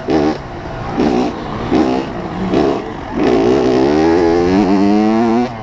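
85cc two-stroke motocross bike engine revving in a few short blips, then held on the throttle from about three seconds in, its pitch climbing steadily before it is cut off sharply near the end.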